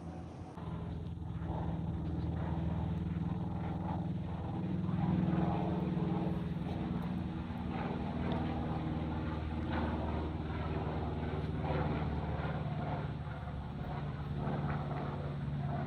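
Aircraft engine drone as a plane passes, a steady pitched hum that swells to its loudest about a third of the way through and sinks slightly in pitch later on.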